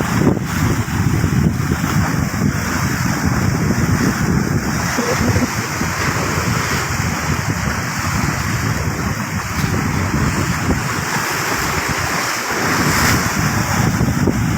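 Big sea waves breaking and washing onto a beach, with wind buffeting the microphone. The surf swells louder a little before the end.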